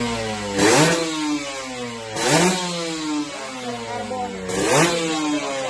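Kawasaki Ninja 150 R/RR two-stroke single revved through an RC3 stainless 'Cobra' aftermarket exhaust: three quick throttle blips, each rising sharply in pitch and sliding back down to a steady idle.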